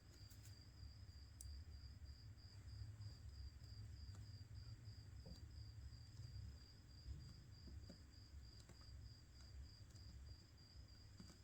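A cricket chirping faintly in a steady, even pulse of high notes, about three to four a second, over a low hum, with a few faint clicks.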